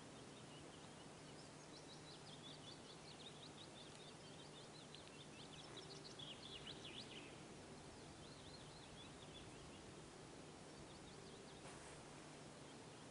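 A small songbird singing faintly: quick runs of short, high notes, the longest phrase in the first half and shorter ones later, over a steady background hiss.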